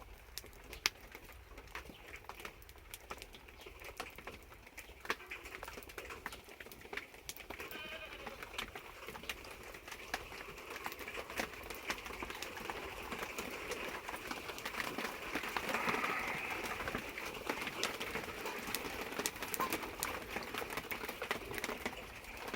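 Scattered sharp crackles and ticks over a steady hiss of light rain, from wood burning in a tin-can stove. An animal calls briefly about a third of the way in and again past the middle.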